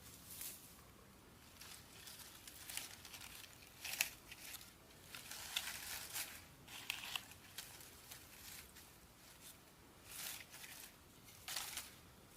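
Irregular rustling, crinkling and tearing sounds in short bursts, with one sharp snap about four seconds in.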